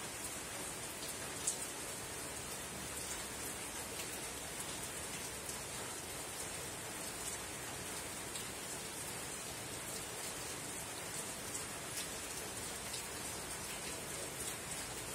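Soft rain falling on a tin roof: a steady hiss with scattered single drops ticking on the metal, and one sharper tick about a second and a half in.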